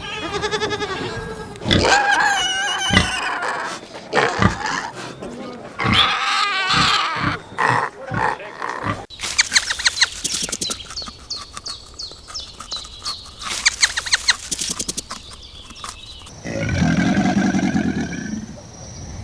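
A sequence of different animal calls: harsh squealing and grunting calls for the first half, then a stretch of rapid clicking chatter, then a long, low drawn-out call near the end.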